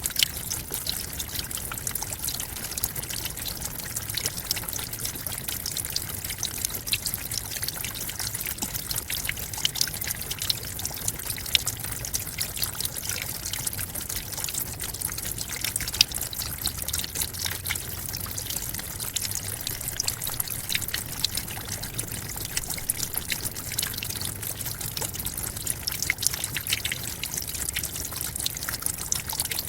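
Forest waterfall: a steady rush of falling and splashing water, full of small crackling splashes.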